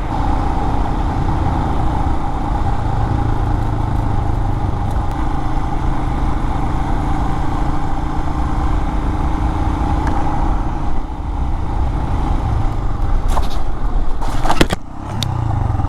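Royal Enfield Himalayan's single-cylinder engine running steadily at riding speed, with wind and tyre noise. Near the end come a few sharp knocks and clatter as the bike hits a hard bump, the loudest moment, and the sound dips briefly just after.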